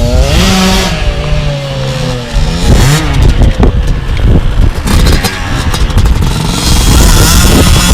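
Two-stroke dirt bike engine revving, its pitch rising and falling. From about two seconds in it turns into a louder, rough, clattery noise.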